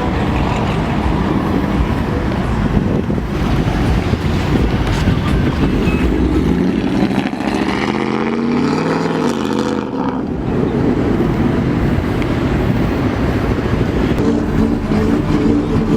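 Car engines running as cars drive out of a parking lot, a steady low rumble. From about six and a half seconds to ten seconds one car passes close, its engine note rising and then falling in pitch.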